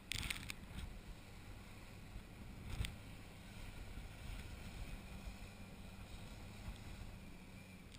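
Engine running steadily at a low, even pitch, with wind noise on the microphone. A brief rush of noise right at the start and a sharp knock about three seconds in stand out.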